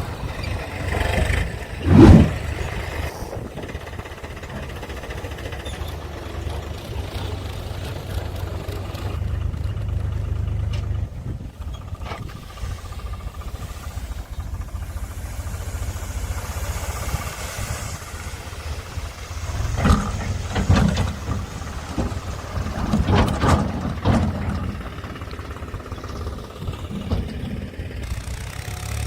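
Diesel engine of heavy machinery, a tractor or backhoe, running steadily with a low rumble. There is a loud knock about two seconds in, and several louder surges come between about twenty and twenty-five seconds in.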